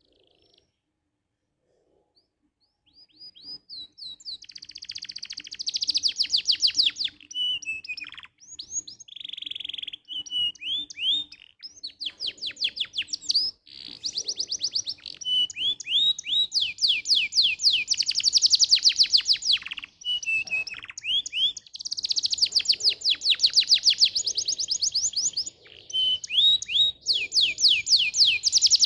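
Domestic canary singing a long song of fast trills and rolls: rapidly repeated high notes, each sliding down in pitch, in phrases that follow each other almost without a break. The song starts about three seconds in, after a near-silent start.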